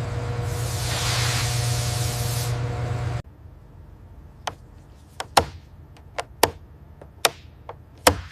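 A steady machine hum with a burst of spraying hiss for about two seconds; it cuts off abruptly about three seconds in, followed by a scatter of short, sharp clicks and taps.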